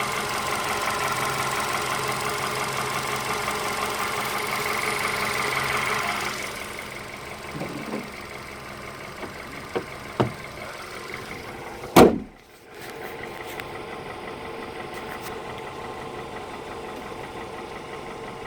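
Car engine idling steadily while being checked for a suspected knock; the sound gets quieter and duller about six seconds in. About two-thirds of the way through there is a single loud slam, and the idle carries on more muffled after it.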